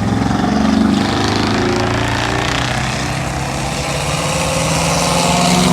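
A car's engine revving hard and held at high revs for an attempted burnout, with a dense hiss over the exhaust note throughout. The exhaust sounds cheap, with a thin, buzzy tone.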